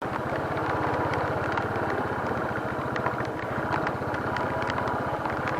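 Motorcycle engine idling steadily, a low, even pulsing beat.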